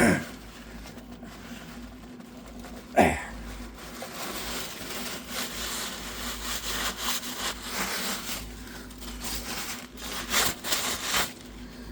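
Two short, sharp squeaks that slide downward in pitch, one at the start and one about three seconds in. Then several seconds of irregular rubbing and scraping, loudest near the end.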